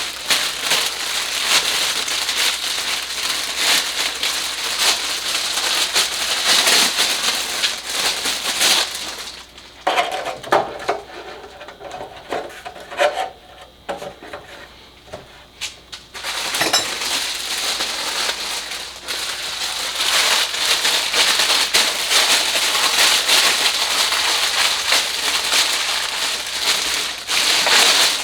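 Air-filter housing being sprayed down and scrubbed clean: long stretches of hissing spray and rubbing, broken in the middle by several seconds of scattered knocks and handling of the plastic housing.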